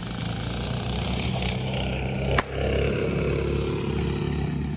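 Small mini bike engines running steadily, with a sharp click about halfway through and an engine tone falling slowly after it.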